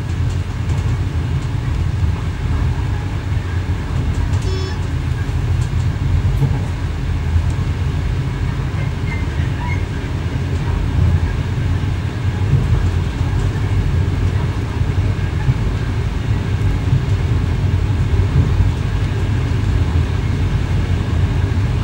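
X11 electric multiple unit running along the track, heard from inside the driver's cab: a steady low rumble of wheels and running gear. A brief faint high tone sounds about four and a half seconds in.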